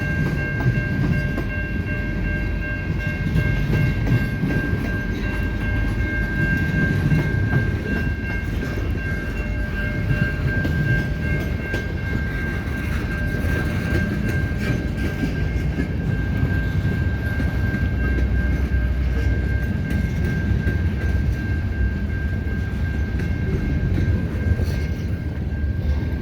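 Freight train cars rolling past over a level crossing: a steady rumble of wheels on rail, with a steady high-pitched tone over it that fades near the end.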